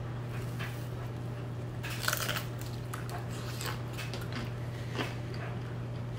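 People chewing and biting into toasted bread with a soft bean-and-tomato topping: a few short bite and chewing noises, the clearest about two seconds in, over a steady low hum.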